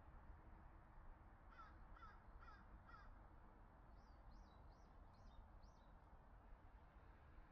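Faint crow cawing four times, about two caws a second. A smaller bird follows with five higher, quicker calls.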